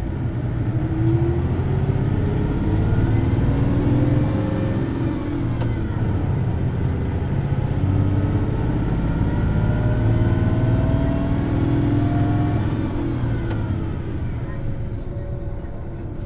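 Hino Blue Ribbon City Hybrid city bus under way, its diesel engine revving high as it pulls away in two long climbs, dropping back briefly about five seconds in and easing off near the end. A faint high whine rises and falls with each climb.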